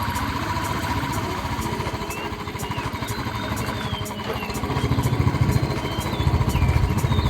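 Royal Enfield Bullet's single-cylinder engine running with a steady low thump, growing louder about five seconds in.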